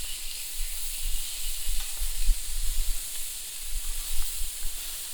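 Sausages sizzling steadily on a Biji cooker over a campfire, with a gusty low wind rumble on the unshielded microphone.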